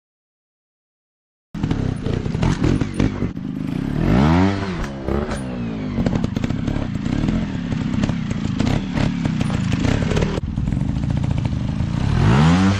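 Dirt bike engines running and revving off-road. The pitch rises and falls twice, about four seconds in and again near the end, over steady engine clatter. This follows about a second and a half of silence at the start.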